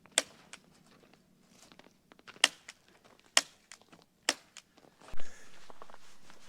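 Hand tool working on wire fencing: a few sharp clicks about a second apart. A louder thump follows, then a rattle that slowly dies away.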